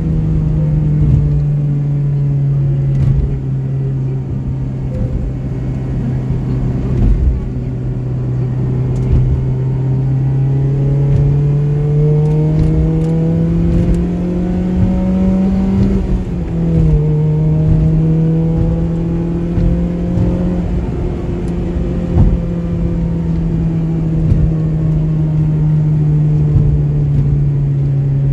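Honda Civic Type R FD2's K20A inline-four running through an aftermarket exhaust at expressway speed. The engine note climbs slowly, drops suddenly with an upshift about 16 seconds in, then holds steady and eases off.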